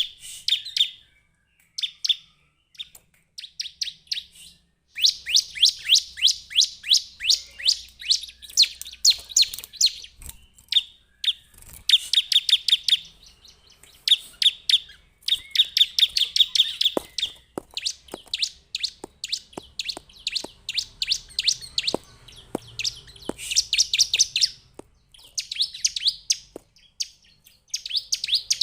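Bar-winged prinia (ciblek) singing: fast runs of sharp, high chipping notes, about five a second, in bursts of a few seconds with short pauses between them. A few faint clicks come in the second half.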